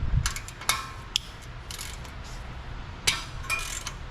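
Socket ratchet clicking in short, irregular spurts with metal clinks as it works an exhaust bolt loose on a small air-cooled mower engine.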